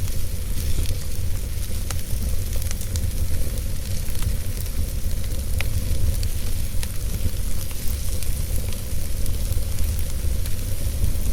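Wood fire burning in a fireplace: a steady low rumble and hiss with scattered sharp crackles and pops, one louder pop about five and a half seconds in.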